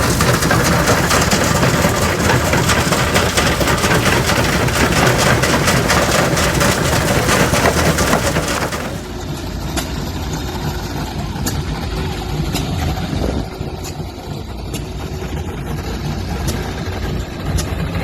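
Old machinery engines running with a dense, rapid clatter; about halfway through it cuts to a quieter running engine with sparse, fairly regular sharp clicks.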